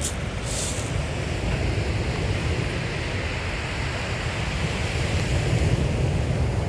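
Sea surf washing on a shingle beach, with wind buffeting the microphone in a heavy low rumble.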